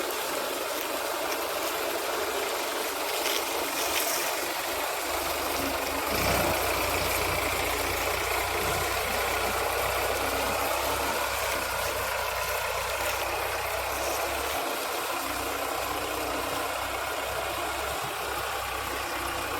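Sugarcane harvester's engine running steadily, with a deeper low hum coming in about six seconds in.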